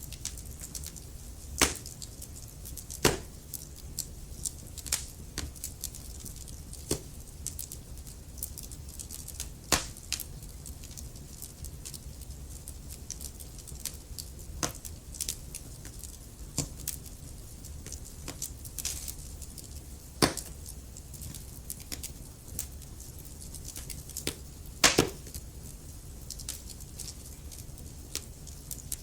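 Logs burning in a fireplace: irregular crackles and sharp pops over a low steady rumble of the fire, with a handful of louder snaps.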